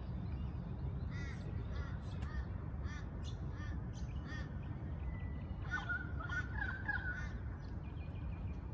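Birds calling in the trees: many short, repeated chirping calls throughout, with a longer held call around six seconds in, over a steady low rumble.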